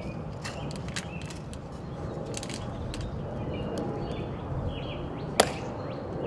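Small birds chirping over steady outdoor background noise, with scattered sharp clicks and one louder, sharper click about five and a half seconds in.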